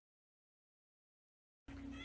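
Silence, then faint room tone with a steady low hum coming in near the end.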